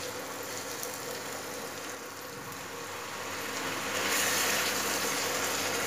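Chopped green capsicum frying in oil in a nonstick kadai, sizzling steadily as it is stirred with a silicone spatula; the sizzle gets louder and brighter about four seconds in.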